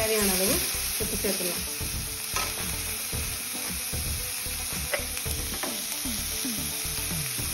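Chopped broad beans sizzling steadily in oil in a metal pan, with a metal slotted spoon now and then stirring and scraping against the pan.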